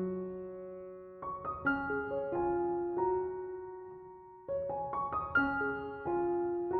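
Slow, soft solo piano music: two short runs of notes, about a second in and again about four and a half seconds in, each left to ring and fade.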